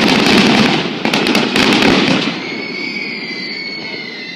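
Fireworks going off: a sudden loud burst, then dense crackling for about two seconds that fades away. A high, steady whistling tone runs through the second half.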